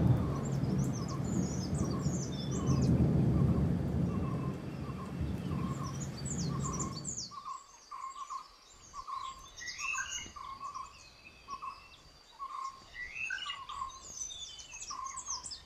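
Birds calling in a wet forest: one short note repeated steadily a little under twice a second, with scattered high chirps over it. A low rumble of thunder and rain covers the first half and cuts off about seven seconds in.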